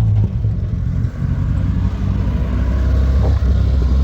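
Car engine running close by with a low, steady note that wavers slightly.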